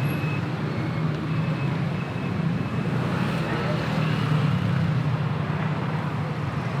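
Steady road traffic noise from motor vehicles running past on a busy city street.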